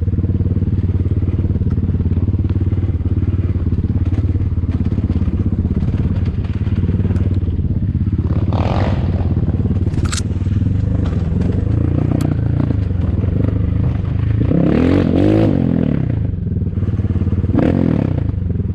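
Enduro motorcycle engine running at low revs, with the throttle opened and closed so the engine note rises and falls a few times in the second half. A couple of sharp clacks stand out about ten and twelve seconds in.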